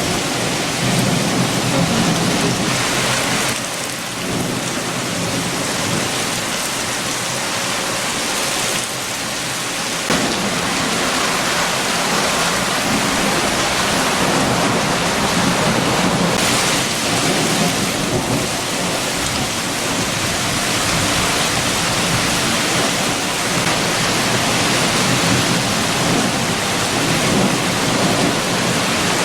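Heavy rain with strong wind: a steady, dense rushing hiss with a low rumble under it, changing texture abruptly a few times.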